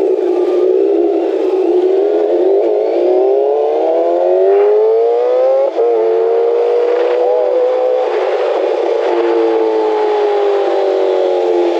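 Inline-four sport bike engine under way, revs climbing, breaking off briefly about six seconds in as at a gear change, climbing again and then dropping away near the end. Heard through a faulty microphone, so it sounds thin and narrow.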